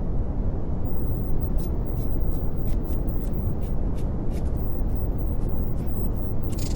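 Steady brown noise: a deep, even rushing hiss weighted to the low end, with faint scattered high ticks from about a second and a half in.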